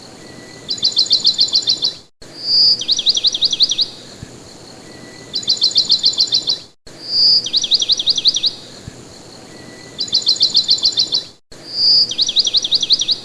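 Bird song: a short whistle followed by quick runs of falling chirps. The identical phrase repeats about three times with abrupt cuts between repeats, as a looped recording.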